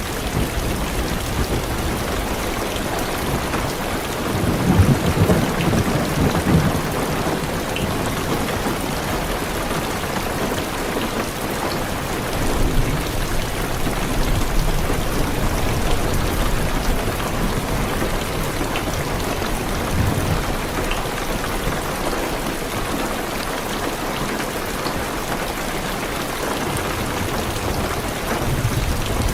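Heavy rain drumming steadily on a car's roof and windows, with low thunder rumbling; the loudest roll swells about four to seven seconds in, and a shorter one comes about twenty seconds in.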